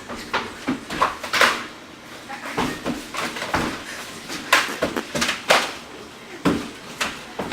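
Footsteps: a run of irregular knocks and scuffs, about one to two a second.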